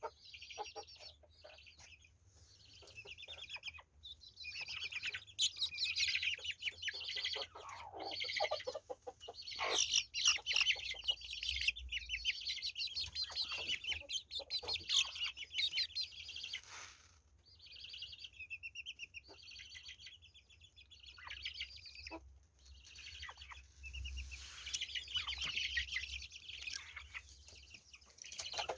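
Chickens clucking and chirping, a busy run of short high calls with a few louder bouts and one falling call about eight seconds in.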